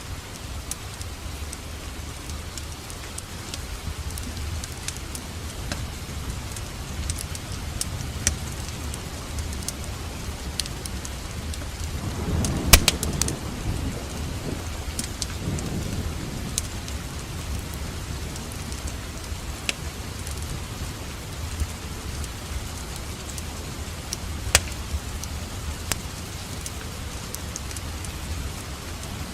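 Steady rain with the scattered sharp pops and crackles of a wood fire. A louder crack comes about halfway through, over a low rumble lasting a few seconds.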